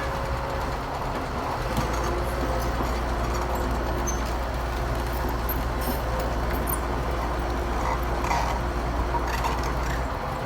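Heavy construction machinery running steadily: a diesel engine's low drone, stronger from about a second and a half in, with a faint whine over it and a few light clicks near the middle.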